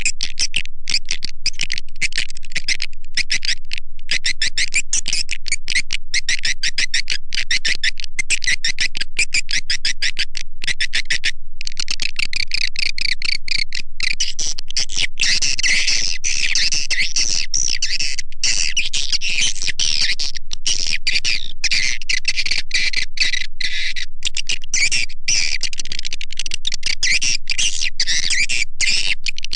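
Swiftlet lure-call recording: an unbroken stream of rapid, short twittering chirps of swiftlets, high-pitched and steady in loudness. Past the halfway point the calls crowd into a dense, overlapping chatter. It is the kind of call track that is played to draw swiftlets into a nesting house.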